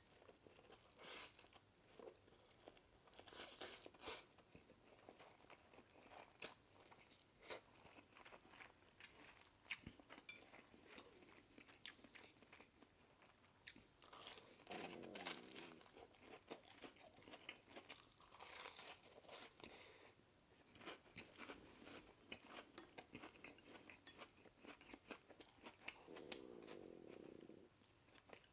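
Close-miked eating of noodles and dumplings: soft chewing with many irregular wet mouth clicks and smacks. There are a couple of brief low hums, around the middle and near the end.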